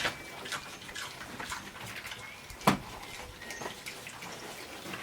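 Philippine native pigs eating wet feed mixed with molasses: irregular wet smacking and chomping, with one sharp knock a little past the middle.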